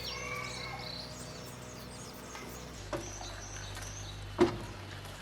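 Birds chirping and insects calling, over a steady low hum. Two short louder sounds stand out, about three and about four and a half seconds in.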